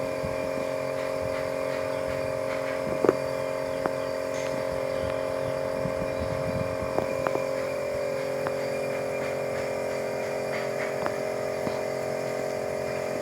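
A steady machine hum at an even pitch, with a few faint ticks and taps scattered through it.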